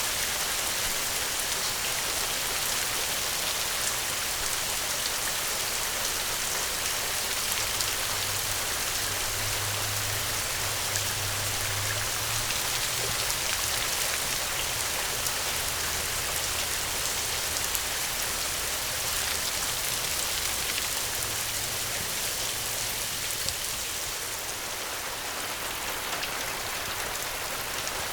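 Steady, heavy rain falling: a dense, even hiss of drops with scattered small ticks of individual drops, easing slightly near the end.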